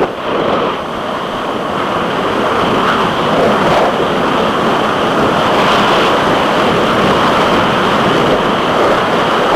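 Steady rush of wind and water noise on the onboard microphone of an offshore racing powerboat running hard through rough water.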